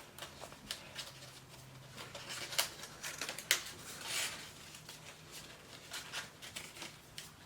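Stiff cardstock rustling and crackling as a folded paper wing is pushed and worked through a narrow slot in a paper bird, with a few sharper crackles around the middle.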